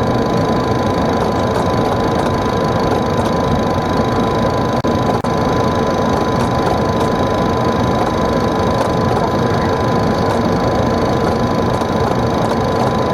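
Steady in-flight noise inside a Boeing 737 on final approach: airflow and engine noise with a thin, constant high tone running through it. The sound drops out briefly twice about five seconds in.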